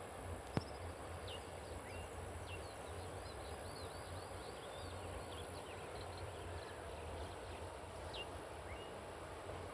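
Outdoor nature ambience: birds chirping many short, high notes, some in quick runs, over a steady low rushing background, with a thin steady high-pitched whine. A single sharp click about half a second in.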